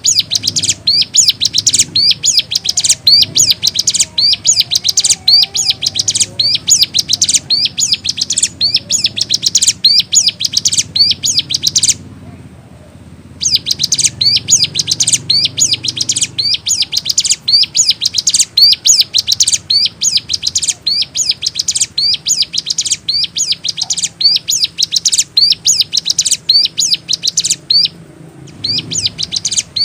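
Ciblek gunung, a prinia, singing loudly: a long run of sharp, high-pitched notes repeated about twice a second, breaking off briefly twice.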